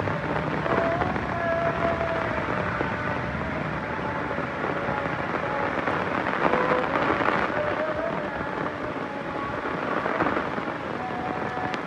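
Heavy rain falling steadily, with a low thunder rumble under it that swells about halfway through.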